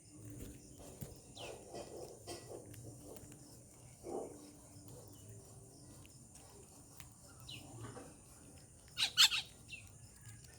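Birds calling, with a few short chirps spread through and one loud burst of calls about nine seconds in, over a steady high hiss.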